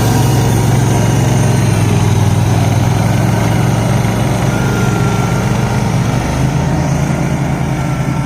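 Garden tractor engine running steadily and loud, its note shifting a little lower about six and a half seconds in.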